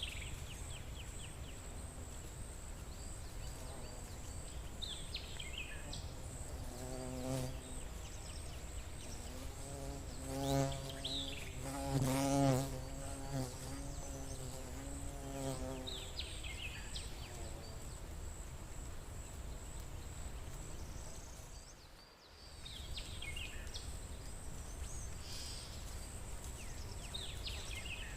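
A flying insect's wings buzzing as it passes close, coming in about seven seconds in, loudest near the middle with its pitch wavering, and fading out by about sixteen seconds. Short bird chirps come now and then over a steady high, rapidly pulsing insect trill.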